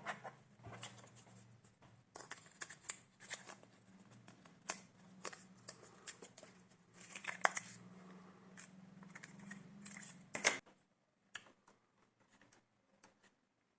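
Irregular clicks, taps and scrapes of plastic and metal laptop parts being handled and pried during disassembly, over a low steady hum. Both stop about ten and a half seconds in, and only a few faint clicks follow.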